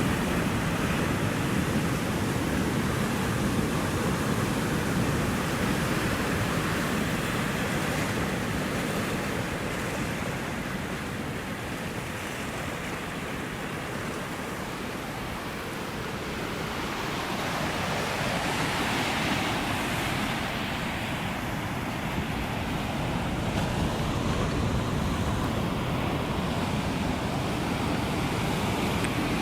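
Ocean surf washing continuously. It eases off in the middle and swells again with a wave breaking about seventeen seconds in.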